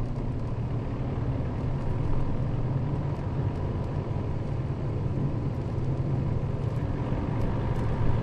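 Nissan Diesel KL-RA552RBN route bus running steadily along the road, its diesel engine drone and road noise heard from inside the passenger cabin, with a faint steady whine above.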